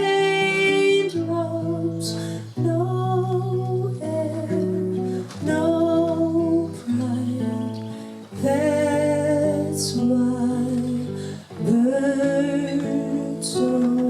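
Acoustic guitar accompaniment with a woman singing a cover of a pop ballad, her voice holding long, wavering notes at times.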